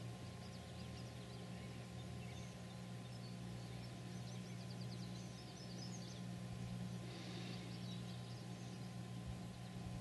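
Faint high chirps and short trills of small birds, busiest around the middle, over a steady low hum.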